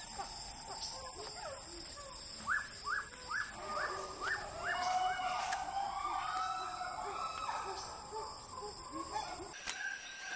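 Rainforest birds calling: a run of about six quick upward-sweeping notes a couple of seconds in, then longer gliding, warbling calls, over a steady high tone.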